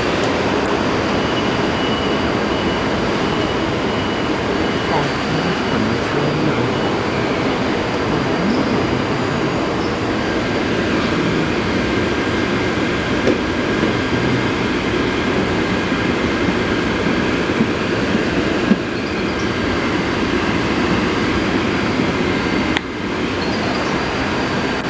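Taipei Metro C381 train running, a steady dense rumble of wheels and car noise with a few thin, steady high whines over it. The noise drops abruptly about 23 seconds in.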